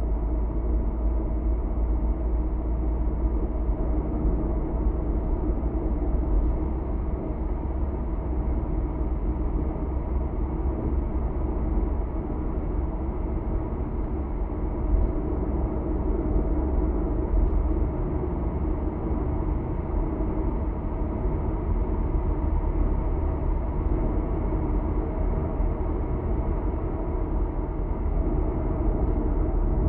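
Car cruising at speed on an expressway, heard from inside the cabin: a steady low drone of tyre roar and engine with no distinct events.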